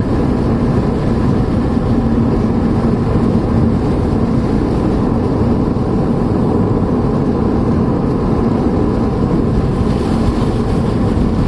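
Steady road noise inside a moving car, heard from the cabin: an even rush of tyre and engine noise with a low steady hum.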